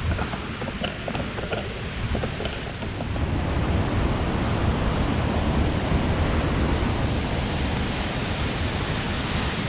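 Rushing water of a rain-swollen, fast-flowing waterfall and rapids, a steady rushing noise that grows louder and brighter about three and a half seconds in. A few faint ticks sound in the first few seconds.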